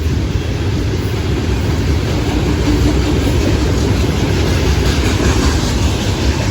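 Florida East Coast Railway freight train of rock cars passing close by: a steady, loud rumble of steel wheels on rail.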